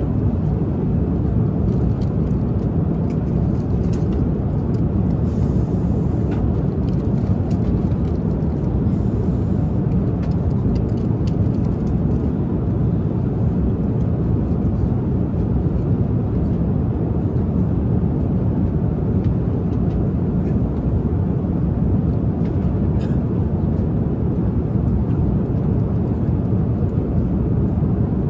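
Airliner cabin noise in flight: a steady low rushing drone, with a few faint light taps over it.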